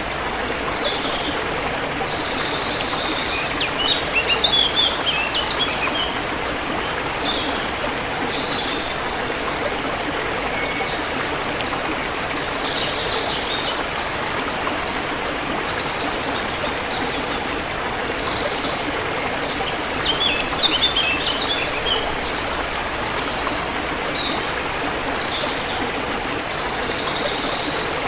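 Forest river water flowing steadily, with small birds chirping over it; a rapid flurry of twittering stands out twice, a few seconds in and again past the middle.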